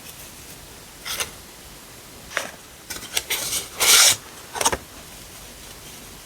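Stickers and their packaging being handled, making a few short, dry rubbing and rustling sounds. The loudest is about four seconds in.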